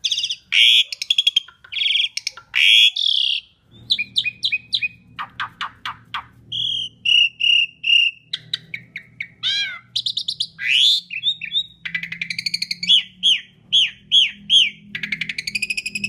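Asian pied starling singing a rapid, varied song: runs of repeated whistled notes, rising and falling slurs and buzzy chatters, with short pauses between phrases. A faint low hum sits under the song from about four seconds in.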